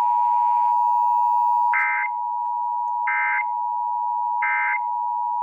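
Emergency Alert System two-tone attention signal: a loud, steady dual tone that announces an emergency alert. Three short bursts of SAME digital data tones cut in over it, about two, three and four and a half seconds in.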